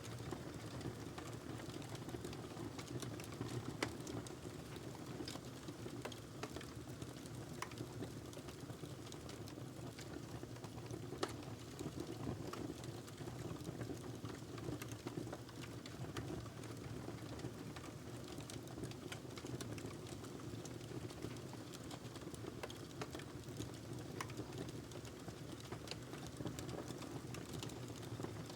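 Log fire burning in a fireplace: a steady low rumble of flames with irregular crackles and pops, two sharper pops about four and eleven seconds in.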